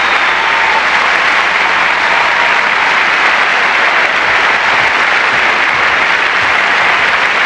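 A large audience applauding steadily and loudly after an award acceptance speech.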